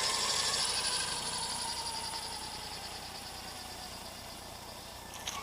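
Brushless-converted Redcat MT RC truck running on 6S LiPo power, its high electric motor and drivetrain whine steadily fading as it moves away. A single sharp click comes near the end.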